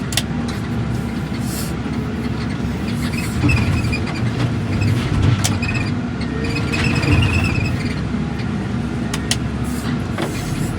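Heavy demolition machine's diesel engine running steadily under load, with a few sharp cracks as the house's structure is smashed.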